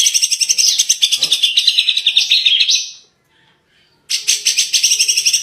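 Songbird singing a fast run of rapidly repeated high, rattling notes for nearly three seconds, breaking off for about a second, then starting again.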